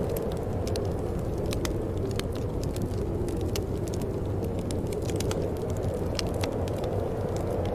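Wood fire crackling: many small sharp pops and snaps at an irregular pace over a steady low rush of burning.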